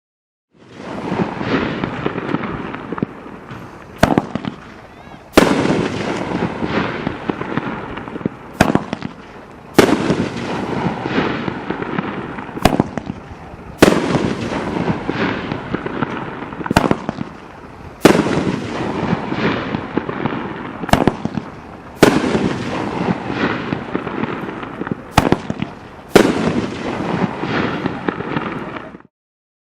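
Mad Ox 'Watermelon Moonshine' seven-shot 500g firework cake firing. Sharp reports come in pairs about a second apart, roughly every four seconds, over a continuous crackling hiss. It starts about half a second in and stops about a second before the end.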